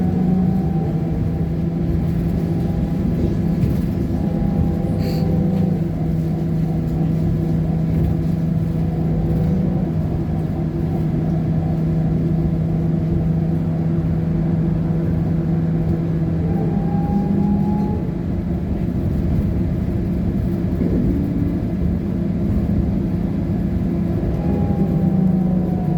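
Trolleybus running along the street: a steady electric traction-motor hum with a higher whine that rises and falls in pitch a few times as it speeds up and slows, over a continuous road rumble.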